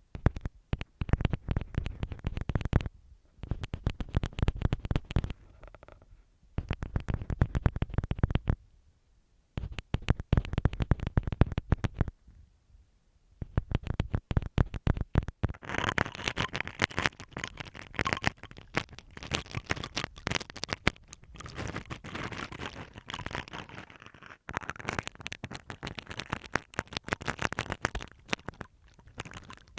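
An ear pick scraping over masking tape stuck on a TASCAM DR-07 recorder's microphones, in separate strokes of one to two seconds with short pauses. About halfway through it changes to a toothbrush brushing over the tape: a denser, brighter scratching that runs on with only brief breaks.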